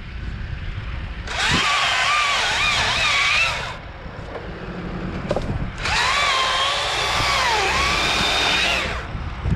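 Battery-powered top-handle chainsaw (Stihl MSA 161 T) cutting in two bursts, one of about two and a half seconds and one of about three seconds, its whine dipping and rising as the chain bites into the wood. Wind rumbles on the microphone throughout.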